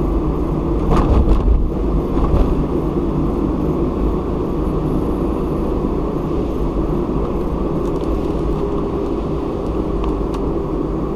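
A car driving along a road, with steady engine and tyre rumble. Two louder bumps come about a second and two and a half seconds in.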